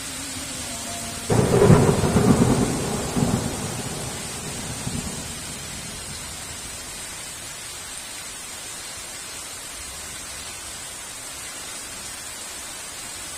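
A thunderclap breaks suddenly about a second in and rolls in several swells, fading over about four seconds. Steady heavy rain falls throughout.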